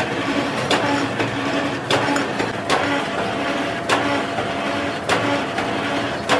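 Metal-turning lathe running steadily with a low hum, with sharp clicks or knocks about once a second, as a compressor crankshaft is machined.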